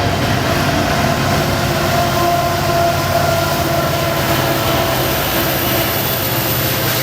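Freight train passing close by: a steady rumble of steel wheels on rail with the low drone of diesel locomotive engines and a faint held squeal.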